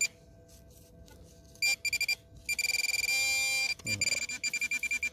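Minelab Equinox 800 metal detector sounding on a target in a freshly dug clump of soil. It gives rapid high chattering beeps, a held tone about three seconds in, then more quick beeps.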